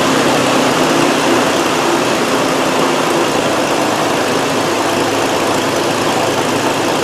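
Nissan Frontier's 3.3-litre V6 idling steadily. A new fuel injector is fitted in place of the one that caused the misfire, and it runs smooth.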